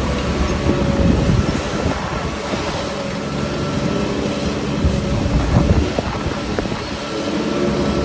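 Heavy diesel engine of a Shantui bulldozer running steadily as it works, with a few short knocks about five to seven seconds in.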